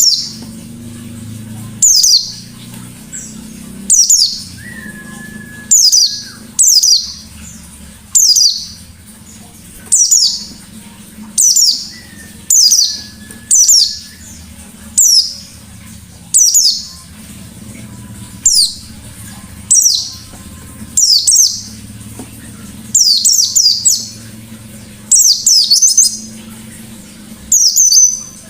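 White-eye (pleci) singing in short, loud bursts of high, quick downward-sweeping notes, about twenty bursts, roughly one every second or so.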